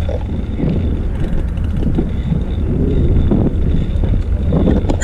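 Wind buffeting a GoPro's microphone while riding a bicycle on a road, a steady low rumble with road noise underneath.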